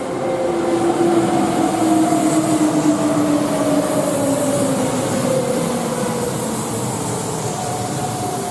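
Electric train running past, its motor whine falling steadily in pitch over several seconds as it slows, over the rumble of the wheels.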